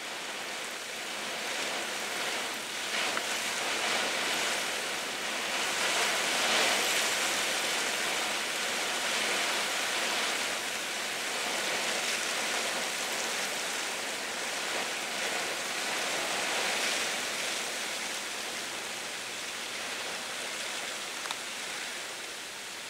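Heavy rain pouring steadily, an even hiss that swells a little about six seconds in.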